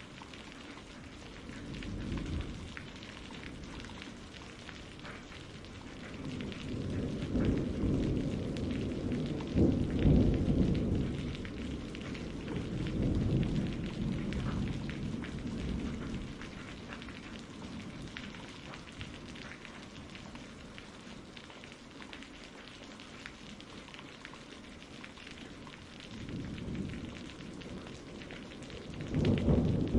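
Steady rain falling, with low rolling thunder that swells and fades several times, loudest about a third of the way in and again near the end.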